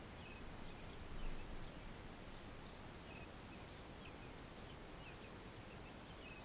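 Quiet outdoor ambience with faint, short bird chirps scattered throughout, and a brief low rumble about a second in.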